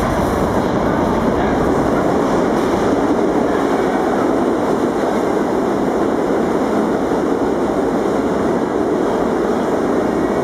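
New York City Subway R160B train running on the track, a loud, steady rumble of steel wheels on rail.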